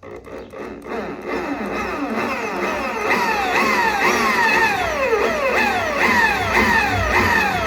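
Corded electric drill boring into metal. Its whine builds over the first few seconds, then keeps sagging in pitch and jumping back up about twice a second as the bit bites and releases under load.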